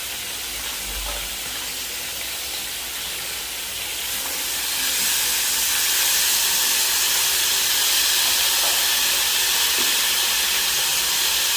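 Linguiça sausage frying in a pan of hot fat, a steady high sizzle that grows louder about five seconds in.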